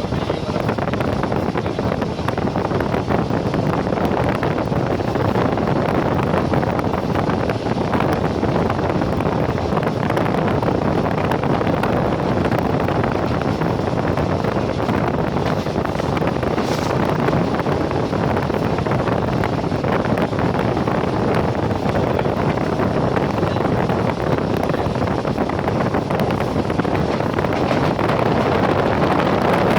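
Steady rushing wind noise on the microphone, with a constant low rumble and no breaks or tones.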